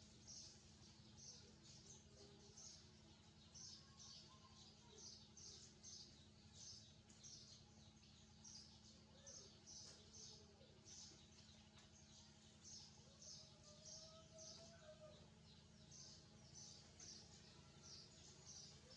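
Faint high-pitched chirping of young birds: short calls repeated two or three times a second without a break, over a steady low hum.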